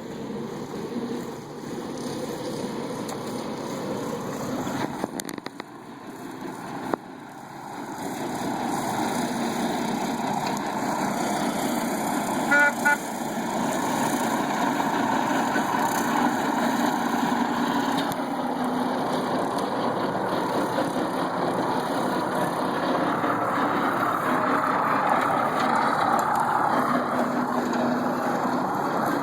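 Engine of a 1948 Willys four-wheel-drive pickup running steadily while it mows grass, growing louder about a third of the way in. A short horn toot sounds near the middle.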